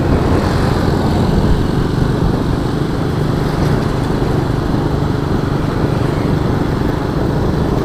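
Honda Astrea Star's small four-stroke single-cylinder engine running steadily while the motorcycle is ridden along, a constant low rumble.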